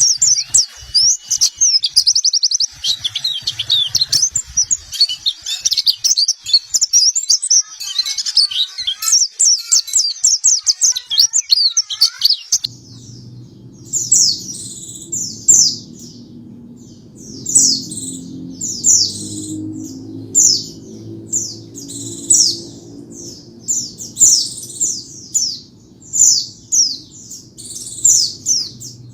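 White-eye (pleci) song. It starts as a dense, fast, high twittering. About twelve seconds in it changes abruptly to a series of short, high, falling chirps about once a second, over a steady low hum.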